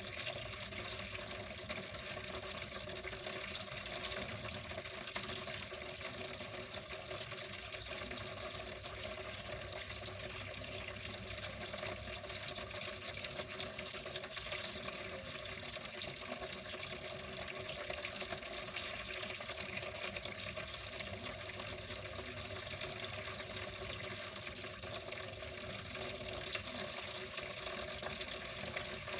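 Water flowing steadily and continuously, an even running-water sound that does not change.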